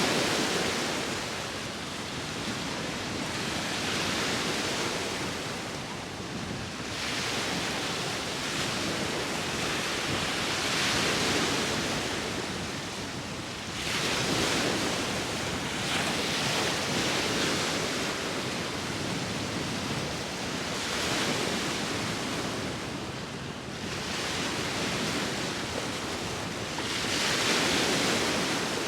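Sea waves breaking and washing in, each surge of surf rising and falling about every three to four seconds, with wind in the background.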